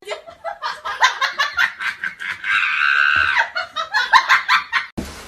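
A person laughing hard in quick repeated bursts, with a drawn-out high squeal of laughter in the middle. It cuts off abruptly near the end.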